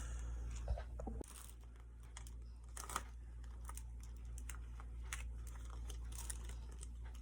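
Sticker sheet being handled and peeled from its backing: faint scattered rustles, crinkles and small taps over a low steady hum.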